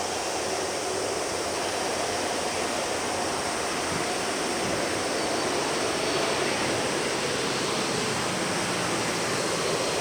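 Jet noise from a Singapore Airlines Airbus A380's four Rolls-Royce Trent 900 engines at takeoff thrust: a steady, even rush with no distinct tones, swelling slightly midway.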